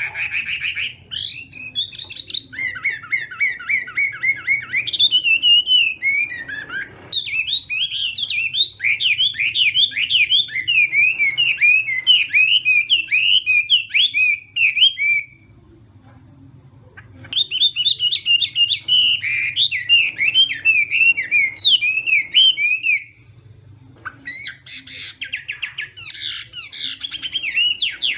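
Chinese hwamei in full competitive song: long, loud phrases of rapid, varied whistled notes that break off briefly about 16 s and 23 s in, then resume.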